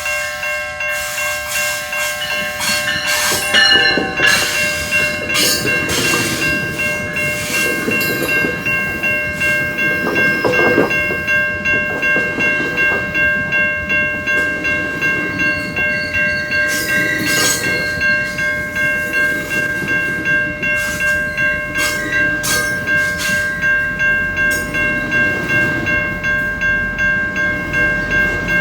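A GO Transit commuter train rolling past, its wheels clattering over the rail joints, loudest a few seconds in and again around ten seconds in. Throughout, a level-crossing warning bell rings steadily at about one strike a second.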